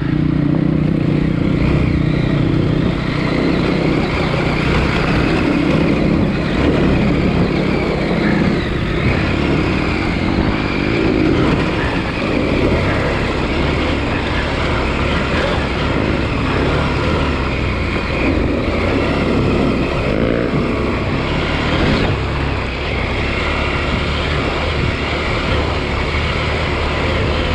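KTM 890 Adventure R's parallel-twin engine running as the bike is ridden, loud and steady, with tyre and wind noise around it.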